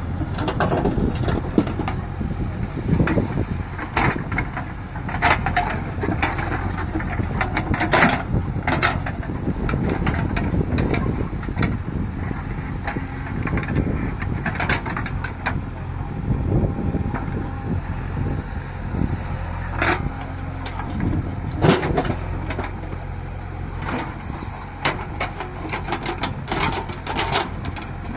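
JCB backhoe loader's diesel engine running steadily under load, with many sharp knocks and clatters of stone striking the bucket and the tractor's tipper trailer as it is loaded.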